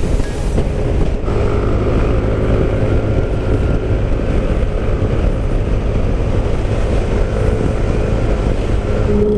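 Motorcycle riding at speed: steady low rumble of wind buffeting the microphone, with the engine running underneath.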